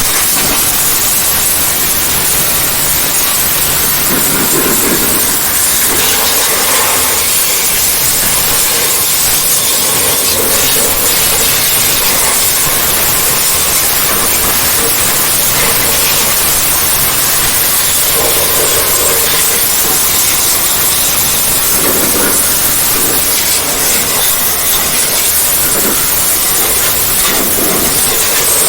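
Steady, loud hiss of a high-pressure jet spraying washing-machine parts clean.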